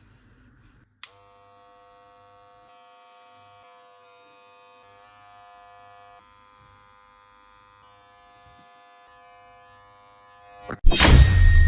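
Wahl Legend hair clipper switched on near the end and buzzing loudly. Before that there is a click about a second in, followed by a faint, steady whine.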